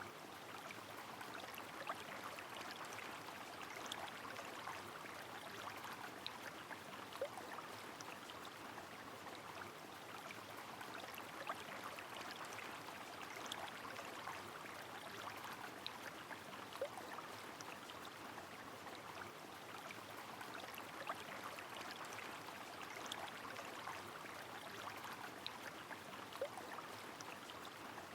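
Rain and a flowing river: a steady, even rush of water with scattered sharp ticks every second or two.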